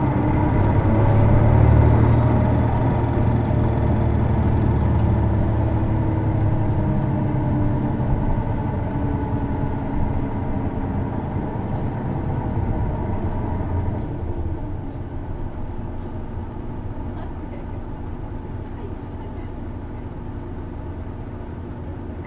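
Interior engine and running noise of an Isuzu Erga city bus (PKG-LV234, inline-six turbo diesel) under way. The engine pulls loudly at first, its pitches sliding slowly down, then it eases off after about 14 seconds to quieter running. This bus's engine is noted for a distinctive abnormal noise.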